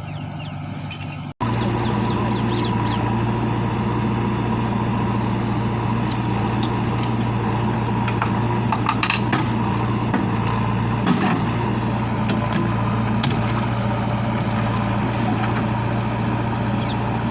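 Tractor diesel engine running loud and steady at high revs, cutting out briefly about a second in.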